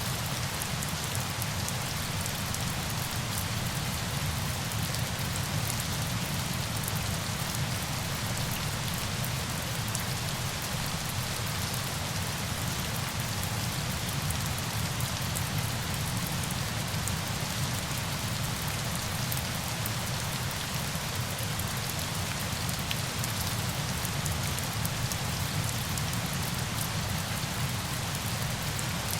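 Steady, unbroken sound of falling water like heavy rain: a dense hiss scattered with fine drop ticks over a low rumble.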